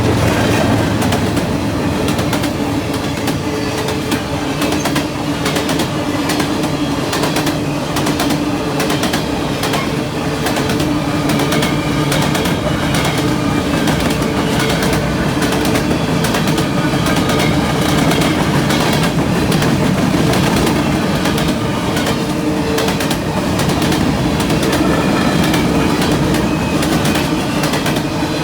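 Freight cars of a long train rolling steadily past at close range, their wheels clicking over the rail joints in a continuous clatter.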